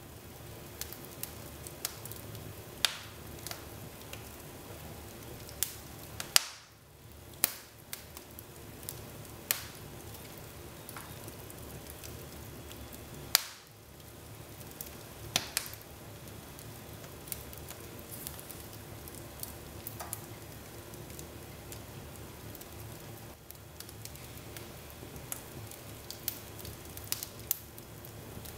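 Wood fire burning in a fireplace: a steady crackle and hiss with sharp pops scattered irregularly, a few of them much louder than the rest.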